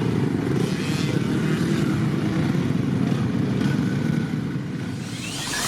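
Motocross bikes running on the track, several engines blending into a dense, steady drone. Near the end one engine's note rises in pitch.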